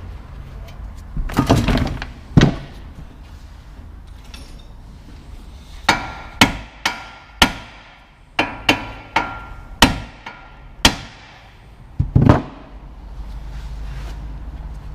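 Hammer blows on metal: about a dozen sharp, ringing strikes, a couple near the start and most in a quick run between about six and eleven seconds in.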